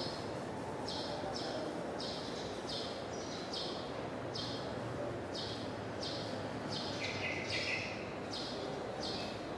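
A bird chirping over and over, short chirps about twice a second, over steady background noise, with a lower double call about seven seconds in.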